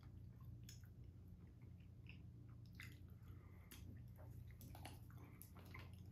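Faint wet chewing of a dark chocolate bar filled with raspberry jam, with irregular mouth clicks and smacks over a low steady hum.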